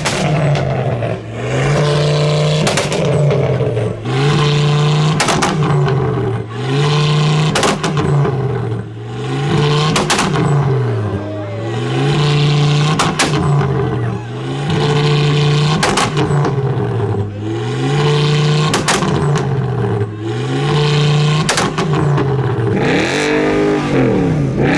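Modified car engine revved over and over, about once every second and a bit: each rev climbs, holds briefly at the top and drops back, with a sharp crack near each drop.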